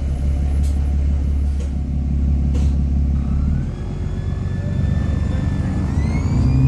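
Bus engine running with a low rumble, and an electrical whine from the on-board speaker that follows the engine and rises in pitch as the bus accelerates near the end: engine noise feeding through the speaker system. Three clicks about a second apart near the start.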